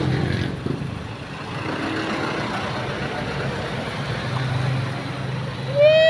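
Road traffic and a car engine as a white Toyota sedan taxi pulls up and idles at the curb. Near the end a loud, steady high-pitched tone starts and carries on.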